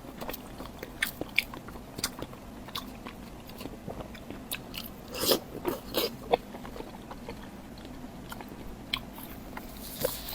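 Close-miked eating: chewing and biting, with scattered short mouth clicks and a few louder bites a little past the middle.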